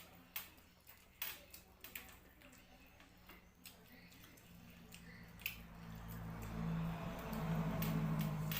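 A person eating with wet chewing, scattered sharp smacks and clicks of the mouth. A low steady hum builds from about halfway through and grows louder toward the end.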